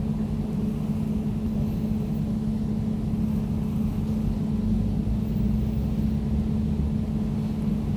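Air conditioner running steadily: an even low hum with a constant tone and a deep rumble beneath it.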